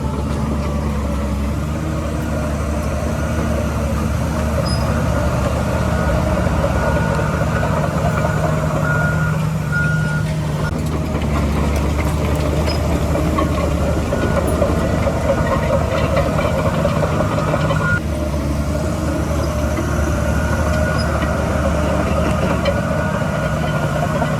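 Heavy diesel earthmoving machinery running steadily at a loud level. A reversing alarm beeps about once a second for a few seconds, starting about seven seconds in.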